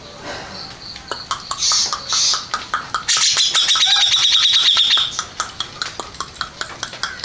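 Grey-cheeked bulbul (cucak jenggot) singing: short high calls and many sharp clicking notes, with a loud, rapid trill lasting about two seconds near the middle.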